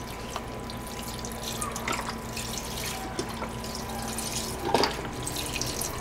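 Chicken broth being poured from a carton into a soup pot: a steady pour of liquid, with a couple of brief louder splashes about two seconds and five seconds in.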